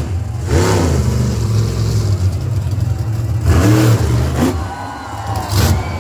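A small vehicle motor revving up and dropping back three times over a steady low rumble.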